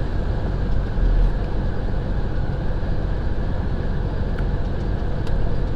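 Semi truck cab noise while driving: a steady drone of engine and road rumble.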